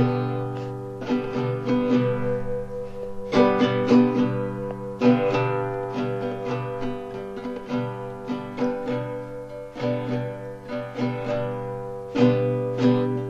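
Acoustic guitar strumming chords, with a hard strum at the start and new chords struck every few seconds.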